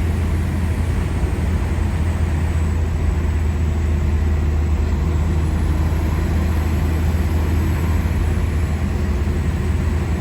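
Inside the cabin of a 1992 Isuzu Rodeo with a 3.1 turbo diesel, cruising at 65 mph: a steady drone of engine, tyre and road noise with a strong low hum and no change in pace.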